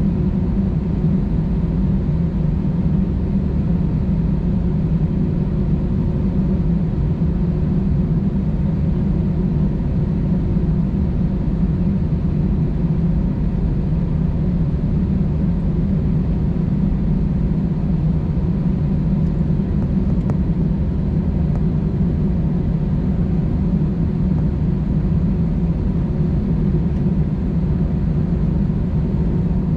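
Steady engine drone of an Airbus A320-216's CFM56 turbofans heard inside the passenger cabin, a low rumble with a faint steady whine above it that neither rises nor falls.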